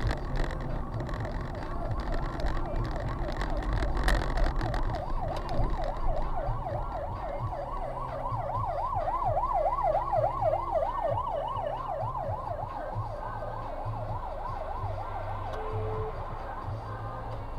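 Emergency vehicle siren in a fast yelp, warbling up and down about five times a second, loudest in the middle and fading toward the end, over the low rumble of road traffic.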